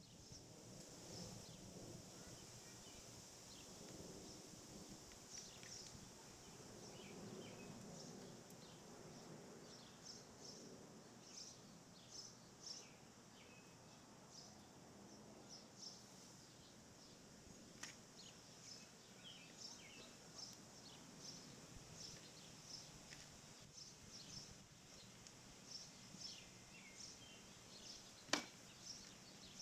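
Faint background birdsong: many short, high chirps scattered throughout, with a faint low rumble in the first half. A sharp click sounds near the end.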